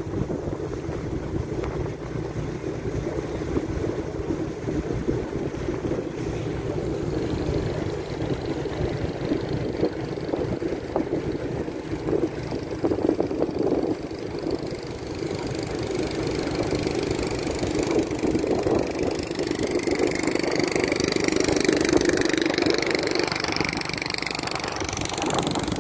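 Boat engine running steadily. Fainter, higher wavering sounds join over it in the last ten seconds.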